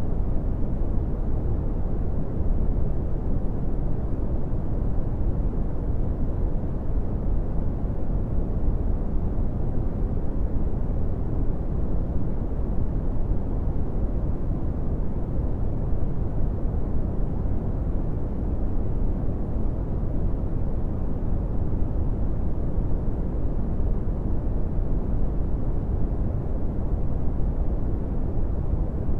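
Steady brown noise: an even, unchanging rumbling hiss weighted heavily to the low end, with little above a couple of kilohertz.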